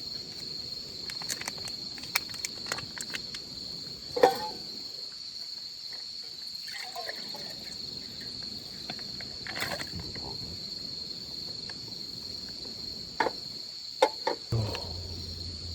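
Crickets chirping steadily in a high continuous trill, with scattered clicks and knocks from handling camping gear. A low hum starts near the end.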